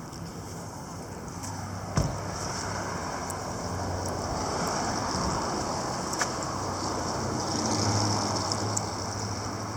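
Steady rushing road noise with a low vehicle hum that swells near the end, as of traffic going by, with two sharp clicks, one about two seconds in and one about six seconds in.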